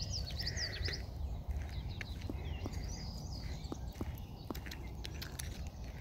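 Songbirds singing: a quick run of high chirping notes in the first second, then fainter calls, over a steady low rumble with a few soft ticks.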